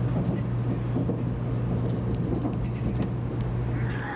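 Cabin noise inside a 500-series Shinkansen running at speed: a steady low hum with rumble over it, and a few faint ticks about two to three seconds in.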